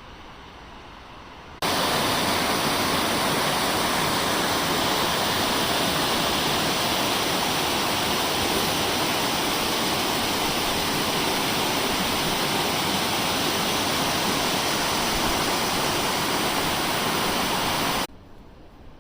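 Loud, steady rush of falling water, like a waterfall or rapids, that cuts in about a second and a half in and cuts off abruptly near the end.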